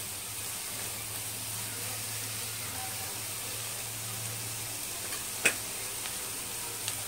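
Onion and tomato masala sizzling steadily as it fries in a nonstick pan, stirred with a wooden spatula. A single sharp tap sounds about five and a half seconds in.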